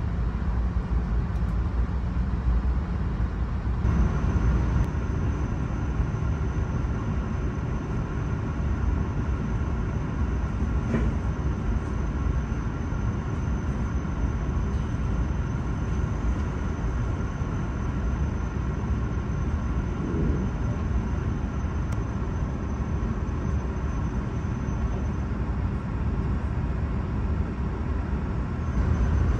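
Cabin noise of an E7 series Shinkansen train: a steady low rumble, with a thin high whine that comes in about four seconds in and drops out near the end.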